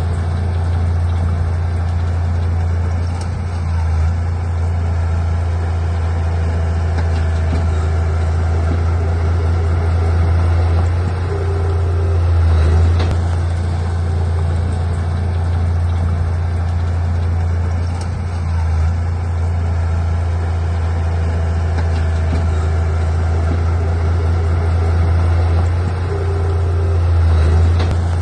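Heavy diesel engine of earthmoving machinery running steadily, a deep hum that swells briefly every several seconds.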